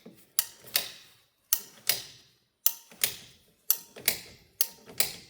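A hand tool clicking sharply in pairs, five pairs about a second apart, the first click of each pair with a faint ring.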